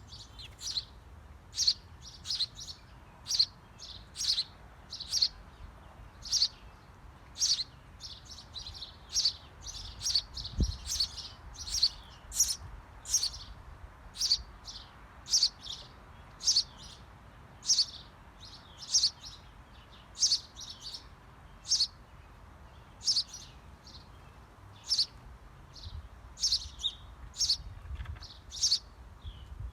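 Small birds at a birdhouse chirping: short, high, down-slurred chirps repeated about once or twice a second, with one faint low bump about ten seconds in.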